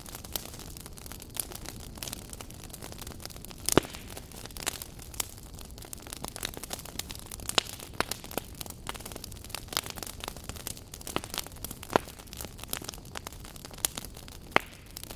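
Wood fire burning in a fireplace: a steady low rumble of flames with irregular sharp crackles and pops, a loud pop about four seconds in and another near twelve seconds.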